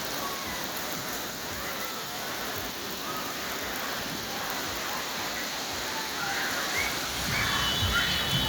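Heavy rain falling steadily on a city street, an even hiss of rain with no letting up.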